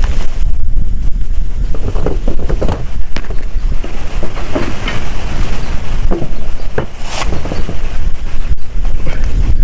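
Strong wind buffeting the microphone: a heavy, steady low rumble, with a few short knocks mixed in.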